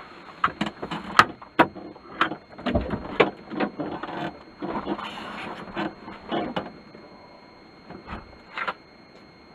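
Irregular clatter of sharp knocks and clicks for about seven seconds, then quieter, with two more knocks near the end.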